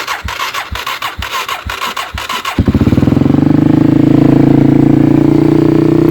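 Kawasaki 250cc dirt bike's electric starter cranking the engine, turning it over in even pulses about four a second. About two and a half seconds in, the engine catches and runs loud and steady on choke, the sign of a cold start on a small battery.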